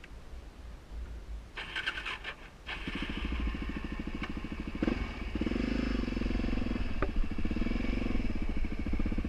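Suzuki DR-Z400's single-cylinder four-stroke motorcycle engine starting. A short burst of cranking comes first; the engine catches about three seconds in and then runs with a steady firing beat that gets louder after about five seconds.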